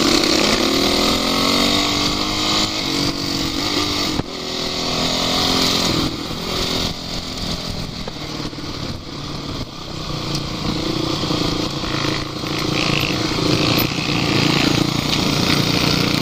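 Off-road vehicle engine running under load, revving up and down repeatedly as it is driven over rough ground, with a steady hiss of noise over it.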